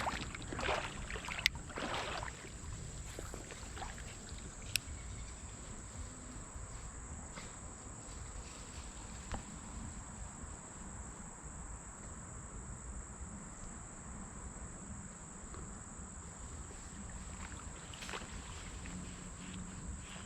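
Creek ambience: a steady low rush of moving water with a constant high-pitched insect drone. Splashing and rustling fill the first two seconds, and a few sharp clicks come later.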